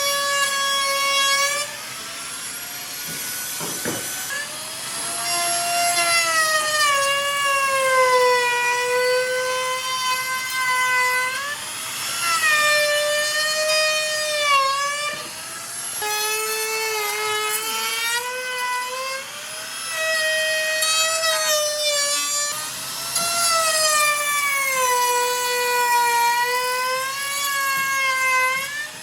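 An electric power tool cutting wood: a loud, high, steady whine whose pitch sags for a few seconds at a time and then climbs back as the tool is loaded and eased in a series of passes, with a few short breaks between them.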